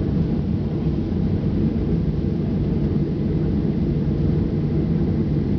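Steady low rumble of a Boeing 737-800 airliner's CFM56 jet engines and rushing air during takeoff, with a fainter hiss over it.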